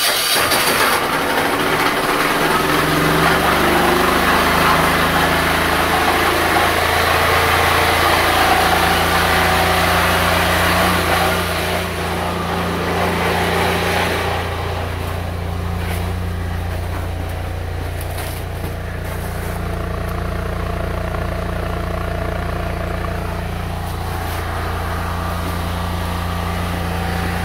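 A small stationary engine running after start-up. It climbs to a steady speed within the first few seconds and then holds an even hum. A louder rushing noise on top fades out about halfway through.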